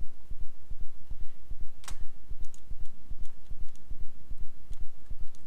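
Computer mouse and keyboard clicks during desktop work, one sharp click about two seconds in, over a continuous run of dull low thumps several times a second.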